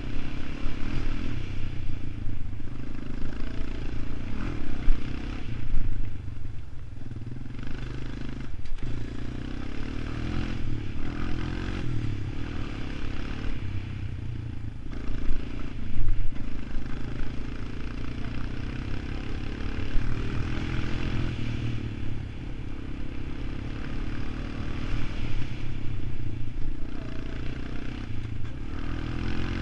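ATV engine running, its pitch and loudness rising and falling with the throttle, with scattered knocks and rattles.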